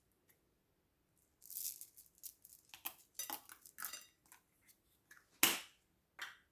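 Close-up handling sounds in a slime ASMR session: a quiet start, then a run of short crackles, clicks and squishes, the loudest a sharp click about five and a half seconds in.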